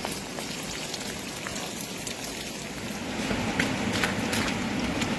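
Rain falling steadily, with separate drops striking a surface close by; it grows heavier about three seconds in.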